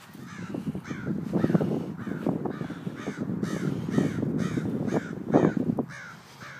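A bird calling over and over, short chirps about three times a second, over louder rustling and scraping noise.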